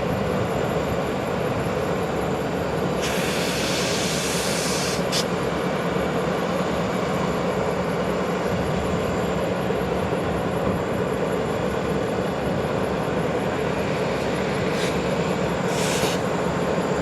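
Freight train running, a steady rumble with two short bursts of hiss and a few sharp clicks.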